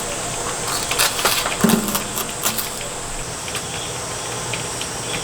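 Steady rain on the tent, with light clicks and scrapes of a spoon scooping ice cream from a cup, and a brief low sound about a second and a half in.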